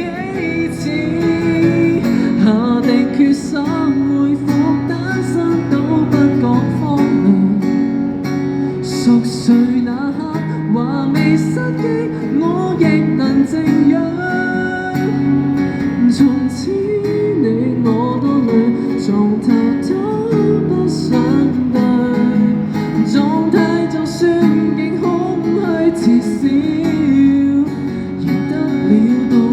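Acoustic guitar strumming and picking a pop ballad's accompaniment and melody in a live street performance, with no clear lyrics sung.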